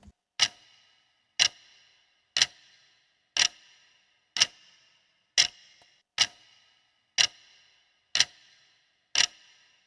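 Countdown-timer clock ticking sound effect: ten sharp ticks, about one a second, each with a brief ringing tail, counting down the answer time.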